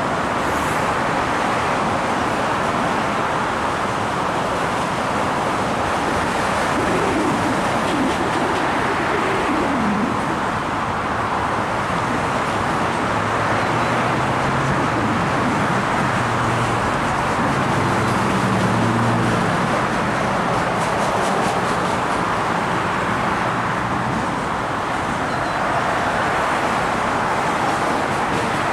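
Steady, loud rumble of passing vehicles, with a low engine hum coming in partway through and fading again.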